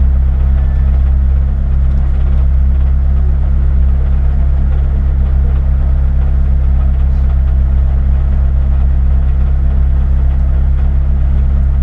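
Rally car engine idling steadily while the car stands still, heard from inside the cabin as a low, even drone.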